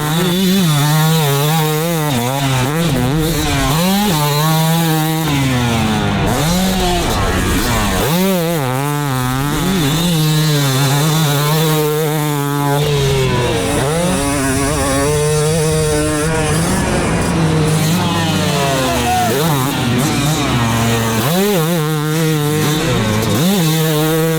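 Yamaha YZ250 two-stroke dirt bike engine ridden hard, revving repeatedly with the pitch climbing and then dropping at throttle and gear changes.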